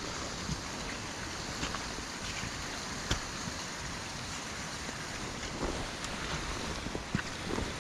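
Steady rushing noise of a rain-swollen river and heavy rain, with a few faint taps scattered through.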